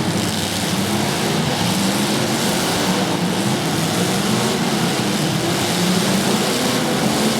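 An engine running steadily with a droning hum.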